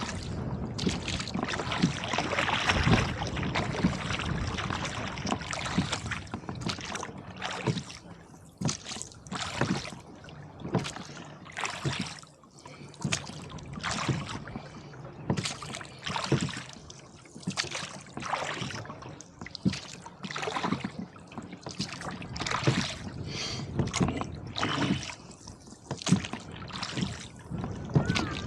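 Oars working a rowboat through choppy water, with a rush of wind and splashing for the first several seconds, then regular oar strokes about once a second.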